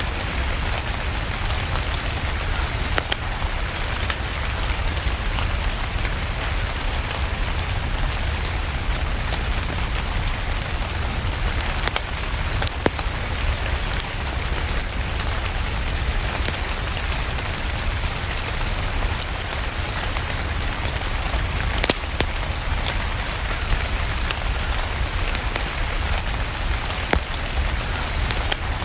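Steady rain with a low rumble underneath, and now and then a sharp crackle or pop from a wood fire burning in a fireplace.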